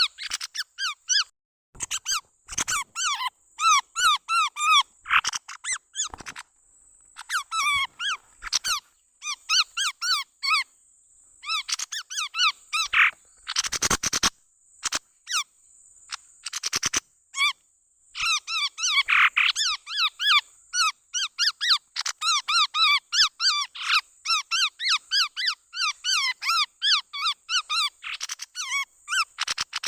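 Chestnut-rumped babbler calls played as a bird-trapping lure: rapid runs of short, high, chirping notes in bursts with brief pauses, over a steady high hiss.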